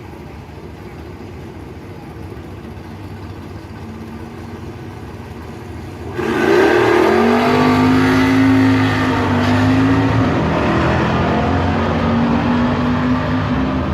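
Drag-racing muscle car engines idling low, then about six seconds in they launch hard at full throttle. The engine note rises sharply, then holds high with a few dips as the cars pull away down the strip.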